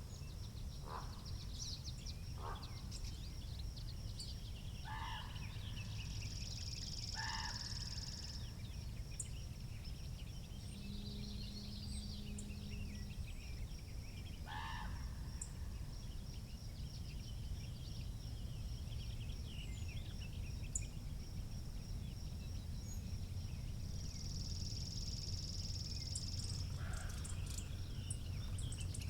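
Steady low wind rumble on the microphone, with scattered calls and chirps from several birds and a brief low hum a little before the middle.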